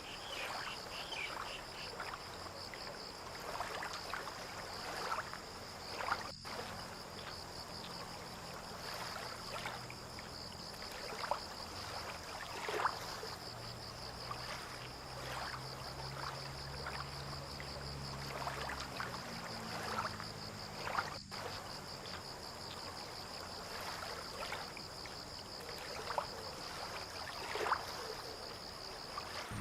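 Fishing-port waterfront ambience: a steady high insect trill, with scattered small splashes of water lapping and a low engine hum that swells in the middle and shifts pitch.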